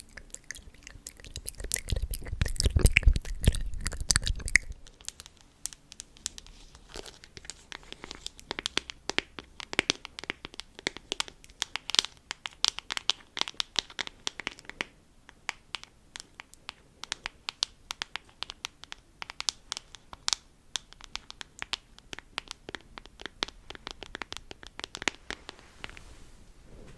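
Close-miked ASMR trigger sounds: dense crinkling, crackling clicks, loudest with a low handling rumble for the first few seconds, then lighter.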